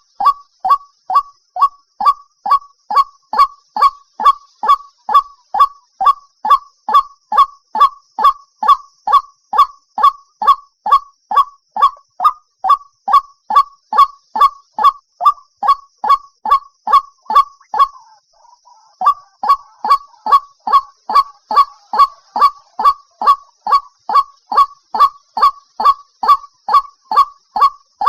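White-breasted waterhen calling: short, loud, falling notes repeated about two to three times a second. There is a brief pause with a fainter, lower call about two-thirds of the way through.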